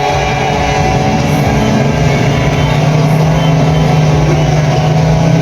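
Racing powerboat outboard engine running steadily at a fast idle during its pre-race warm-up, one loud continuous drone that steps up slightly in pitch about two seconds in.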